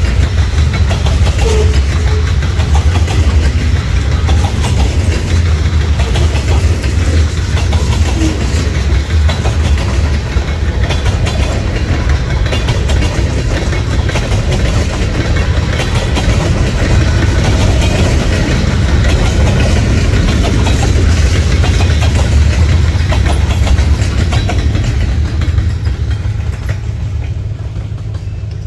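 Diesel freight train hauled by four EMD road-switcher locomotives (GP30, GP9, GP7u, GP9H) passing close by: their two-stroke diesel engines give a steady deep rumble, and wheels clatter over the rails. The sound fades near the end.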